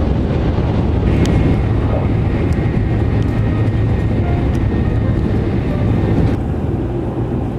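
Tokaido Shinkansen Nozomi train running at high speed, heard inside the passenger car: a steady low rumble, with a faint high whine from about a second in that stops about six seconds in.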